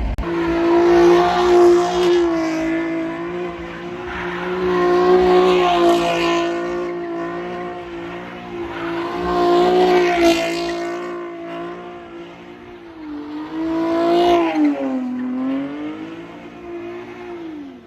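A car's engine held at high, steady revs while it spins donuts, growing louder and fading about every four seconds as it comes around, with tire squeal under it. Near the end the revs dip and then drop away.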